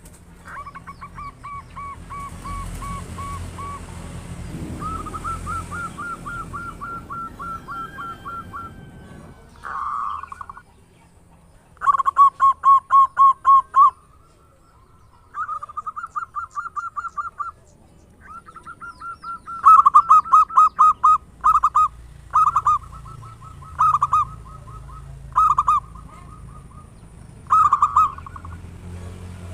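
Zebra dove (perkutut) cooing: repeated bouts of quick, rapidly pulsed coos, some long strings and some short phrases, with short pauses between. The bouts come at two slightly different pitches.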